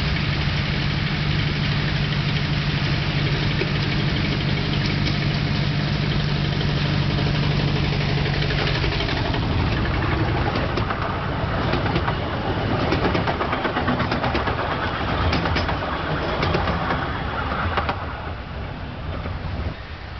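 Narrow-gauge park railway train passing. For the first half its locomotive engine hums steadily; then the passenger cars go by with clicking and rattling of wheels on the track, which fades out near the end.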